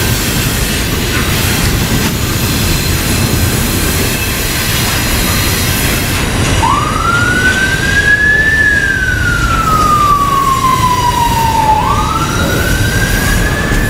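An emergency vehicle's siren starts wailing about halfway through, rising and then slowly falling in pitch, twice. Underneath it runs the steady loud noise of a passing train.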